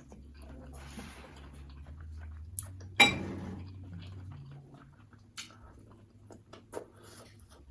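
Dishes clinking: one sharp clink of a dish about three seconds in, ringing briefly, with a few lighter clicks and taps around it.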